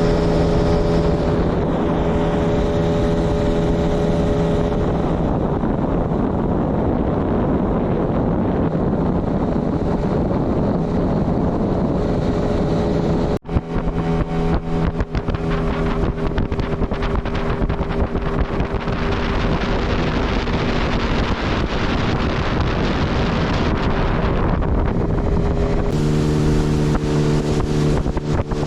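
Tarpon 9.9 outboard motor running steadily, driving a PVC inflatable boat under way, with wind on the microphone. The sound breaks off abruptly about halfway through and resumes, and the engine note changes near the end.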